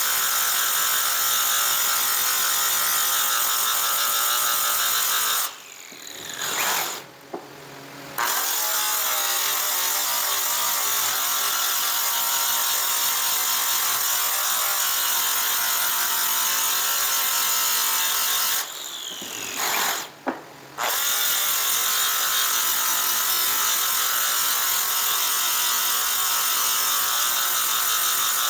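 Small power tool sanding a metal aircraft exhaust pipe, running steadily with a high whine. Twice it is switched off, winding down in pitch, and then starts again.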